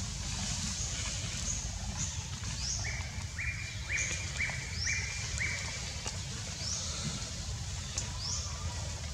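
Forest birds calling: short high chirps repeating about once a second, with a run of about six short, evenly pitched notes, about two a second, starting about three seconds in, over a steady low rumble.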